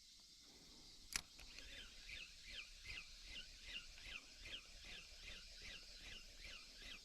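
A single sharp click about a second in, then a faint, rapid series of short falling chirps, about three a second, like a bird calling repeatedly.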